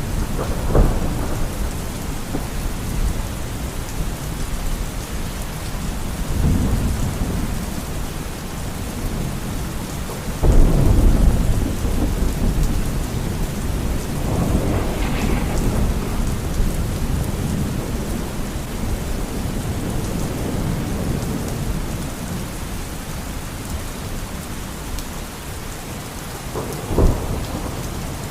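Steady rain, with thunder rumbling several times. The loudest and longest roll comes about a third of the way in, and a short sharp one comes near the end.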